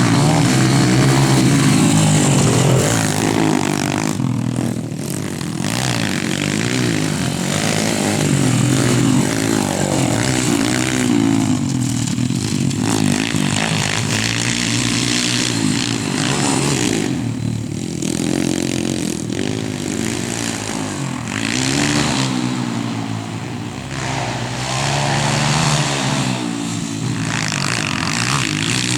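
YCF 140 pit bike's single-cylinder four-stroke engine running, its revs repeatedly rising and falling.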